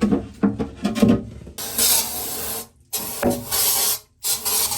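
Aerosol crawling-insect killer spray can hissing in three bursts, each cut off sharply, after a few knocks of handling at the start.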